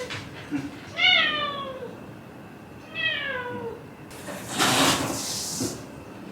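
Shiba Inu grumbling in drawn-out whining calls: two calls about two seconds apart, each sliding down in pitch. They are followed by a loud breathy hiss about four seconds in.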